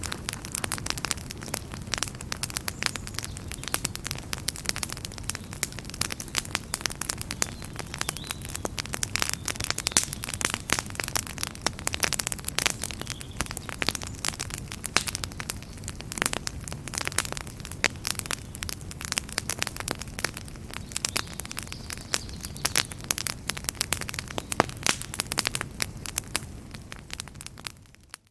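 Wood fire crackling in a fireplace: a dense run of sharp snaps and pops over a steady low rumble of the flames, fading out briefly near the end.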